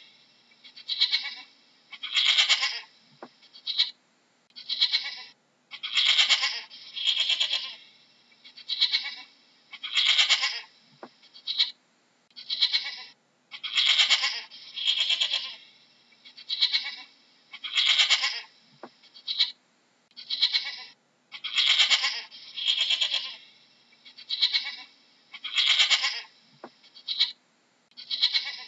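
Goats bleating over and over, a steady run of short, high-pitched bleats about one every second or so.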